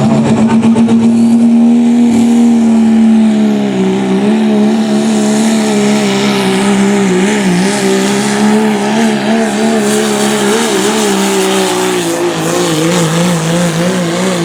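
Turbocharged diesel pickup truck running at full throttle while pulling the sled, its engine note held steady at first and then wavering up and down from about four seconds in, with a rising hiss over the top.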